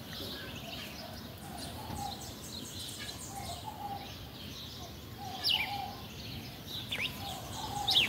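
Birds calling: a short low call repeated about once a second, under higher chirps, with a few quick falling whistles near the end.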